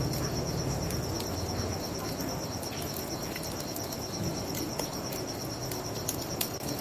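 Crickets trilling in a steady, fast-pulsing high chirp, over the scattered sharp pops and crackles of a wood bonfire and a low rumble underneath.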